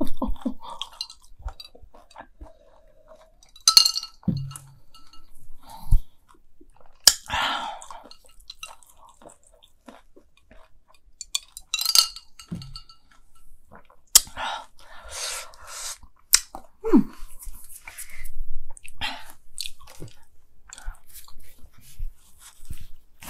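Close-miked chewing of deep-fried Cheetos mac and cheese balls, with irregular crunches every few seconds.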